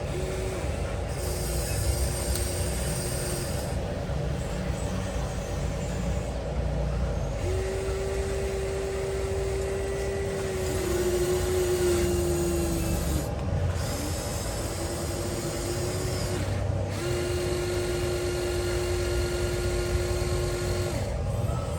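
Radio-controlled excavator's small electric motors whining in stretches of one to four seconds, stopping and starting again several times, over a steady low rumble.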